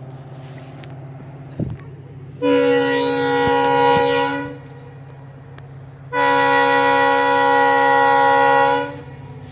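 Train horn sounding two long blasts, the first about two seconds and the second about three, each a chord of several notes, over a steady low rumble from the approaching train.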